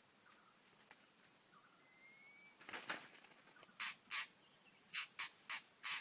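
White-rumped shama at a ground trap: a faint rising whistle about two seconds in, a brief rustle, then six short harsh bursts in quick pairs toward the end.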